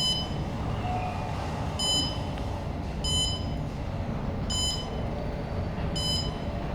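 Short, high electronic beep repeating about every one and a half seconds, over a steady low hum.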